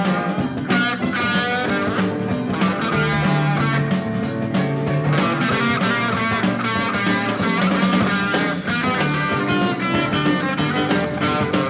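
Blues-rock band playing an instrumental stretch with no vocals: electric guitar lines over bass and drums.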